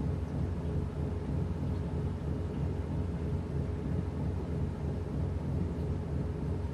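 Washing machine running: a steady low hum and rumble, with a faint steady higher tone over it.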